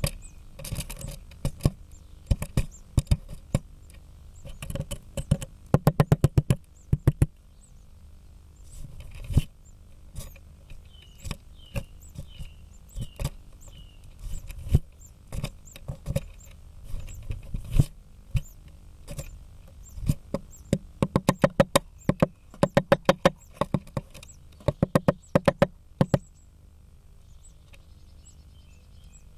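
Great spotted woodpecker hammering its bill against the wood of a blue tit nest, sharp knocks coming in quick runs of several blows with pauses and single blows between, as it tries to break in to the nest.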